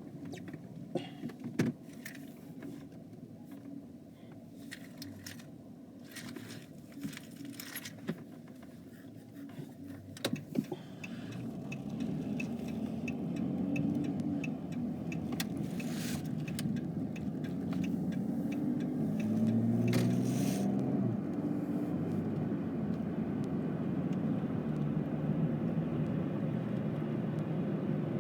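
Car driving, heard from inside: scattered clicks and light rattles over a low background for the first ten seconds or so, then road and engine noise rises from about twelve seconds in and stays louder.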